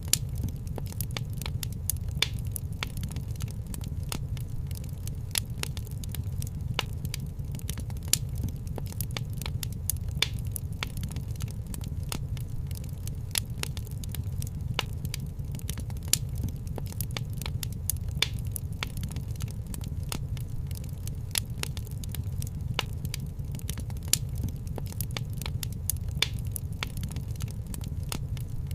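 Wood fire crackling in a fireplace: irregular sharp pops and snaps, several a second with some louder ones, over a steady low rumble of the flames.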